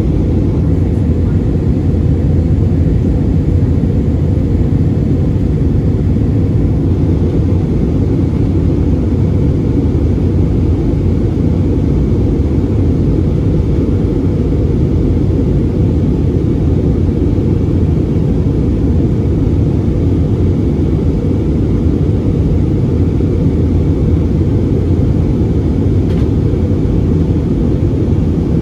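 Steady low rumble of engine and airframe noise inside an Airbus A320 cabin, holding an even level throughout.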